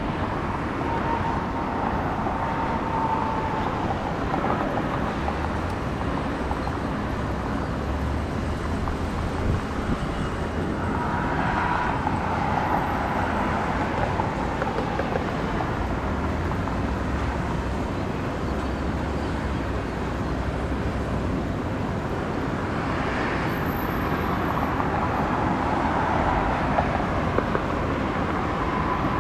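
Steady outdoor engine noise, with a faint whine that swells and fades a few times.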